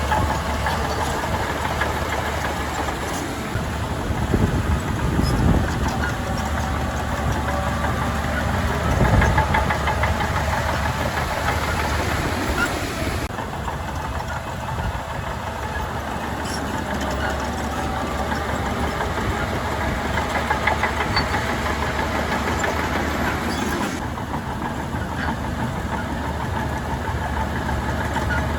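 Heavy diesel engine of earthmoving machinery running steadily, with brief louder swells about four and nine seconds in.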